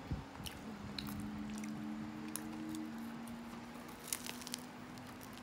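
Crunching and chewing of a fried Korean cheese corn dog's crisp batter, a few sharp crackles scattered through, with a flat low hum underneath.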